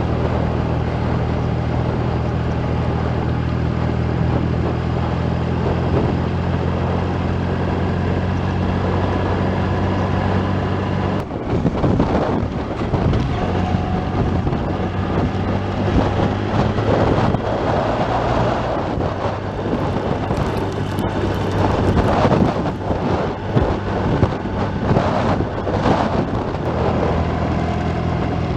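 Motorcycle engine running steadily under way, with wind buffeting the microphone for most of the second half and drowning out the engine until near the end.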